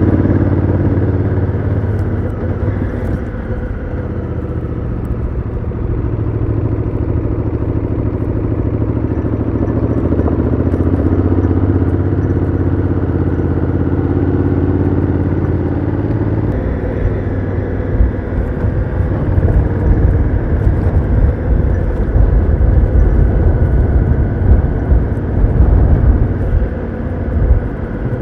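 Honda Africa Twin CRF1000L's parallel-twin engine running under way through its stock exhaust, the engine note rising and falling with the throttle. Past the midpoint a louder, uneven low rumble joins in.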